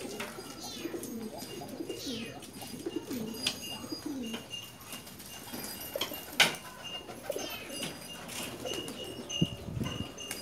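Domestic pigeons cooing over and over, several birds at once, with scattered sharp clicks and one louder tap about six seconds in.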